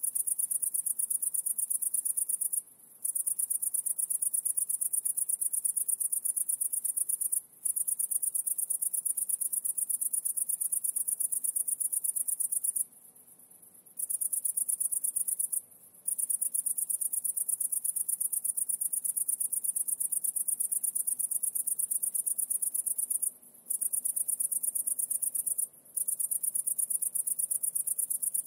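A high-pitched insect trill, a fast steady pulsing that breaks off briefly several times, once for about a second near the middle.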